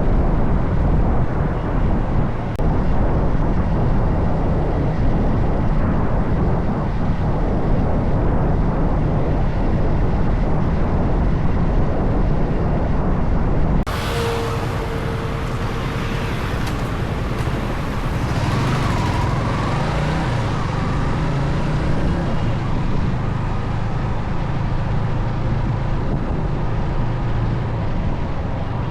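Motorcycle ride in city traffic: a steady low rumble of engine and wind, changing abruptly about halfway through to lighter street traffic with a brief steady tone like a horn.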